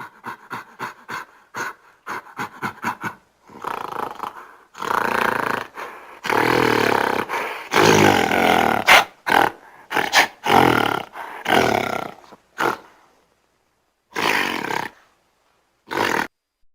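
A primate's loud call sequence: a run of quick short pulses, about five a second, building into a series of long, loud calls, with two short calls near the end.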